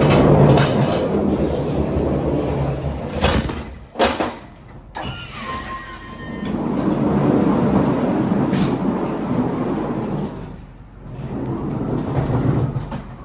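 Loaded pallets being rolled across a truck trailer's floor: heavy rolling rumbles in three stretches, with a few sharp clanks about three to four seconds in and a brief falling squeal just after.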